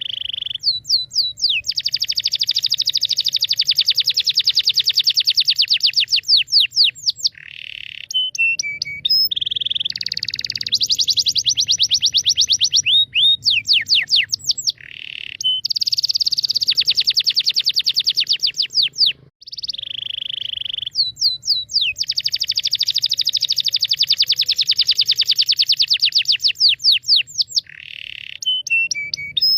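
A high bird call, probably a looped sound effect: rapid trills of chirps at about ten a second, broken by short falling whistles. The same sequence repeats about every ten seconds, three times over.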